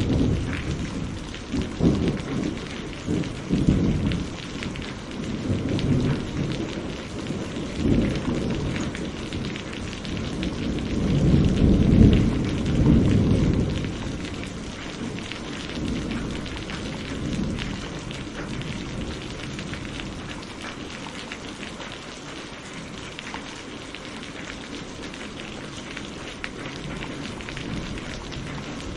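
Steady rain with rolling thunder. The low rumbles swell and fall several times, are loudest about twelve seconds in, and die away through the second half, leaving the rain alone.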